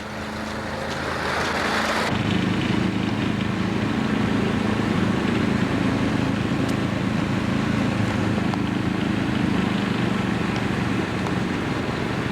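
An engine running steadily, swelling over the first two seconds and becoming louder and fuller about two seconds in.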